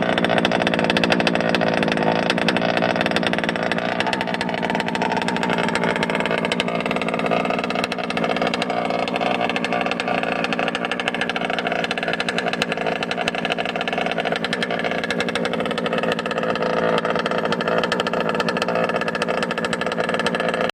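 Small gasoline two-stroke engine of a Losi DBXL 2.0 1/5-scale RC buggy, fitted with a modified Magnaflow exhaust, running steadily at a fairly constant speed.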